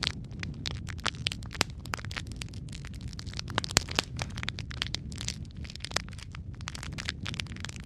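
Wood fire crackling: a steady low rumble of flames with frequent sharp pops and snaps at irregular intervals, the loudest pop a little under four seconds in.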